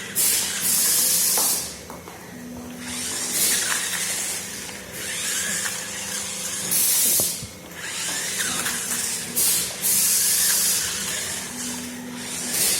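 Small electric motor of a toy RC monster truck whirring in repeated bursts, about a second each, as it is throttled on and off.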